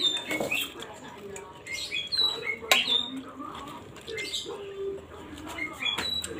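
Small birds chirping over and over in short high calls, with a few sharp crunches or clicks in between.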